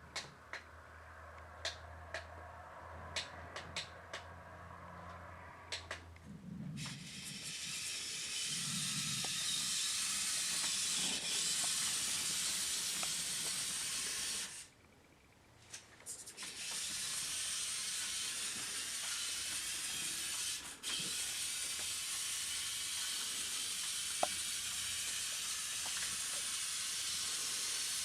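Siku Control remote-controlled model truck running: a steady hiss sets in about seven seconds in and breaks off briefly around the middle. It is preceded by a few sharp clicks.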